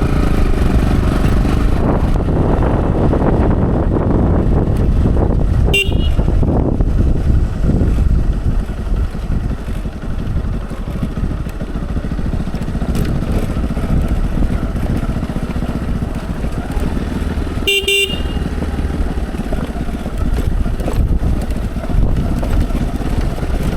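Motorcycle riding along a rough gravel road, its engine and wind noise running steadily, with two short horn beeps, one about six seconds in and another near eighteen seconds.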